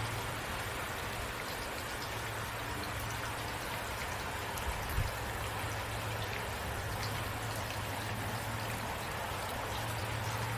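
Steady rain falling: an even hiss with scattered drop patters over a low steady rumble, and one soft low thump about five seconds in.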